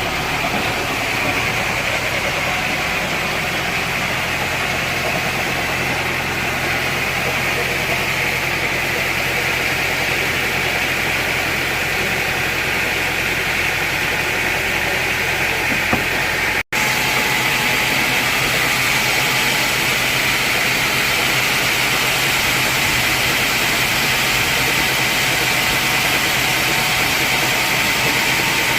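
Sawmill machinery running steadily: a loud, even engine-like drone with a hissing edge. It drops out for an instant a little past halfway, then carries on unchanged.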